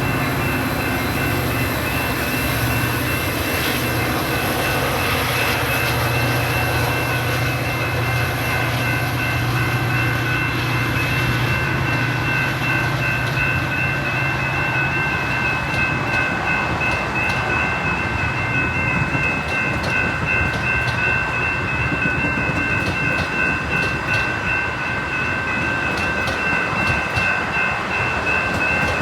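Metra commuter train: a diesel locomotive runs for the first half, then the cars roll by with rhythmic wheel clatter over the rail joints. A repeated high-pitched ringing goes on throughout.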